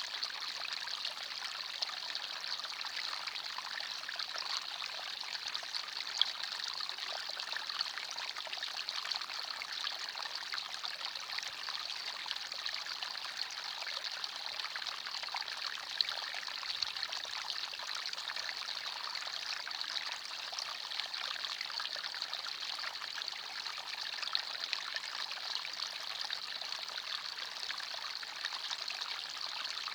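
Forest stream running and trickling steadily, an even bright rush of water, with a couple of brief sharp splashes, about six and about sixteen seconds in.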